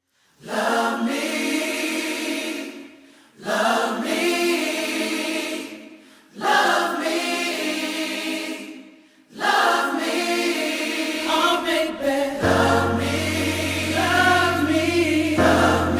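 Background choral music: voices sing three phrases of about three seconds each, each swelling and then dying away. The singing then carries on without a break, and low bass notes join in about twelve seconds in.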